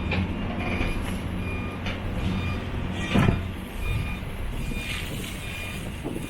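Steady low engine rumble with a short high beep repeating about twice a second, like a reversing alarm, and a single thump about three seconds in.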